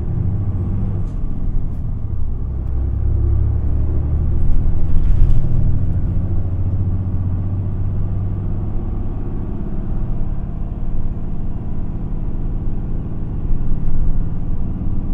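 Isuzu Erga city bus's diesel engine and drivetrain running as the bus pulls away and drives, heard from inside the passenger cabin. A low hum gets louder about four to five seconds in, with a short hiss or clatter at its peak, then settles to a steady run.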